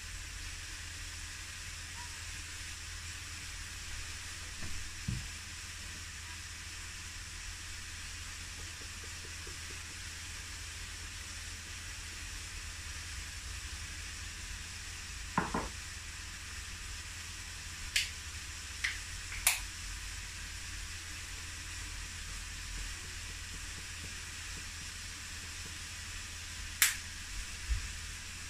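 Shredded savoy cabbage and red pepper sizzling steadily in a frying pan, with a few sharp clicks and taps scattered through, the loudest near the end.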